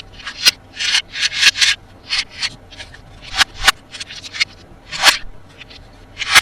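Hands rubbing and scraping toy packaging during unboxing: a quick, irregular series of short scratchy strokes, a few of them sharper and louder.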